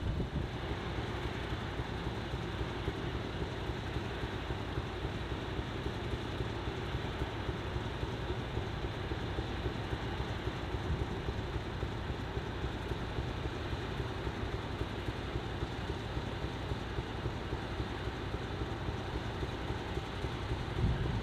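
Class 50 diesel locomotive's English Electric 16-cylinder engine idling, a steady rumble heard from a distance.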